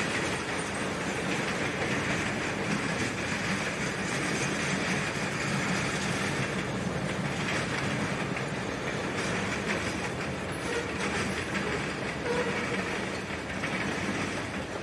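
Freight train cars rolling steadily past, their wheels clattering over the rails.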